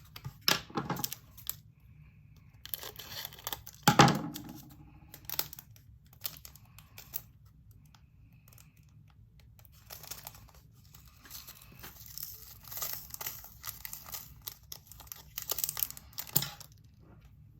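Small plastic bags of diamond-painting drills crinkling and rustling as they are handled and opened, with scattered clicks and one louder knock about four seconds in.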